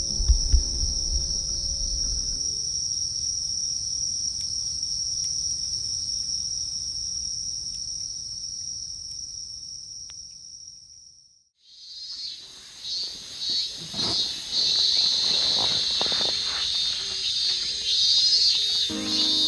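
Crickets trilling in one steady high tone, fading out about ten seconds in. After a moment of silence, a pulsing chorus of insect chirps fades back in, and music starts near the end.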